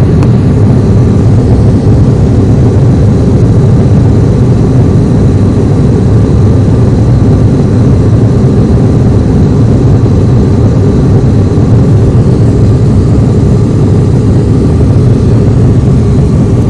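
Loud, steady drone of an aircraft's engine heard on board, a constant low rumble with a faint steady whine above it and no change throughout.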